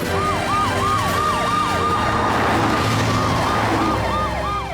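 Emergency-vehicle sirens in a fast yelp, rising and falling about three times a second, two sirens overlapping, over a low vehicle rumble.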